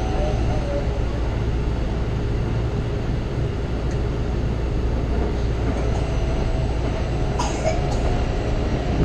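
Commuter train running, heard from inside the carriage: a steady low rumble of wheels on rails, with a brief high-pitched squeal near the end.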